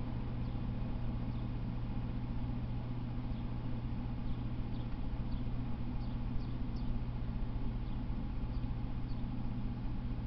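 Faint, short falling chirps of a small bird, repeated irregularly and a little denser about six seconds in, over a steady low hum.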